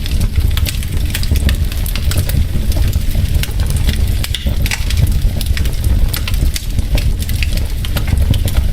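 Wood logs burning in a fireplace, crackling with frequent sharp, irregular pops over a steady low rumble of the flames.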